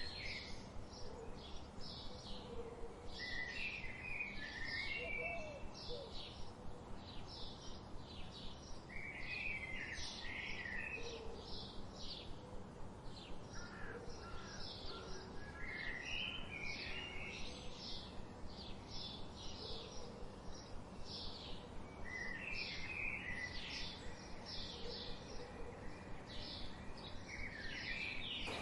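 Wild songbirds calling: one bird repeats a short, high chip about two to three times a second, while another breaks in every few seconds with a short jumbled warbling phrase.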